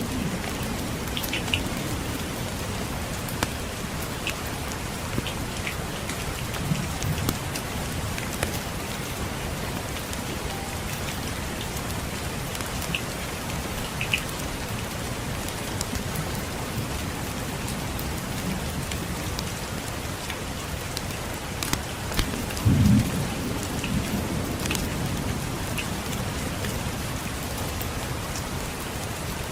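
Steady rain, with low rumbles of thunder, the loudest about two-thirds of the way through. Scattered sharp crackles and pops of a wood fire in a fireplace.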